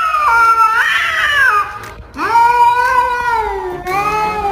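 Cat meowing in long drawn-out calls, one after another, the first dipping and then rising in pitch.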